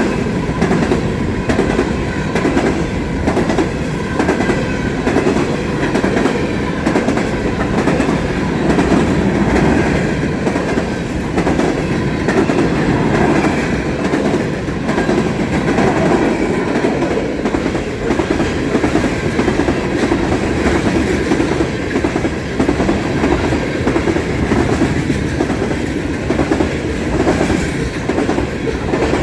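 Freight train cars rolling steadily past, the wheels clacking in a regular rhythm over the rail joints with a constant rumble underneath.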